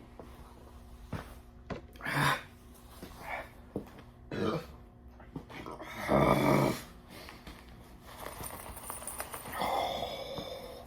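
A man's pained grunts, gasps and groans in a string of short bursts, the loudest about six seconds in and a longer falling groan near the end, as he struggles through chugging ice-cold carbonated water.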